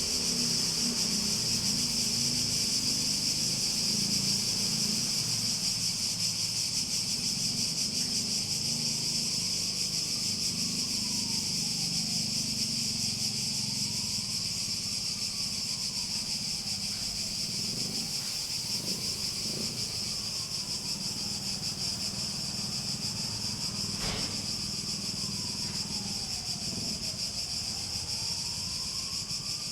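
A chorus of cicadas buzzing steadily at a high pitch. A low rumble sits underneath, and from about a quarter of the way in a faint tone slowly rises and falls in the background.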